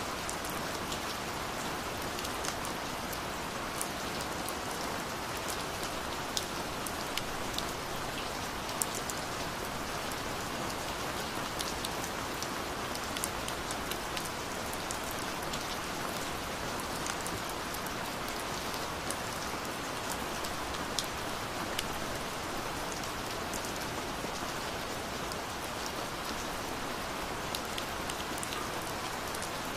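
Gentle rain falling steadily, an even hiss with scattered individual drops ticking on a surface.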